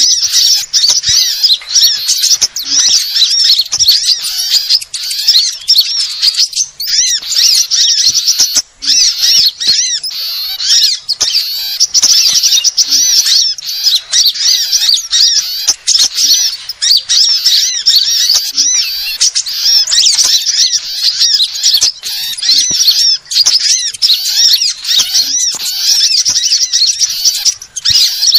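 Dense, unbroken high-pitched chirping and trilling of small songbirds, many quick calls overlapping: a bird-lure recording for sunbirds.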